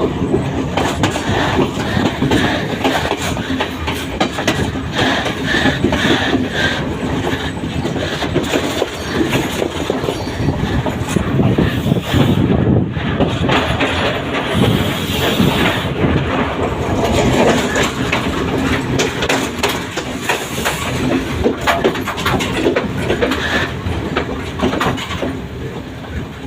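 Train running along the track, with the wheels clattering repeatedly over the rails.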